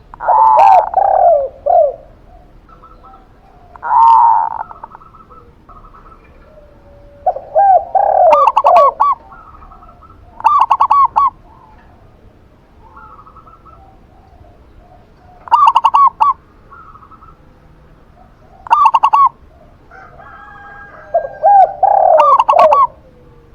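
Zebra dove (perkutut) and spotted dove (tekukur) cooing in turn, about seven separate phrases a few seconds apart. Some phrases are quick stuttering runs of short notes, others lower falling coos.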